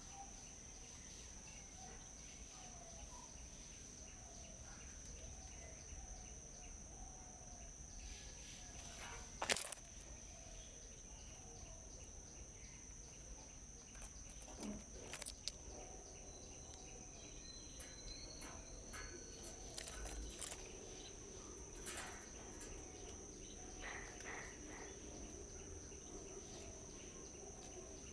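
Quiet outdoor ambience: a steady, high insect drone throughout, with faint bird chirps and a few sharp clicks, the loudest about nine and a half seconds in.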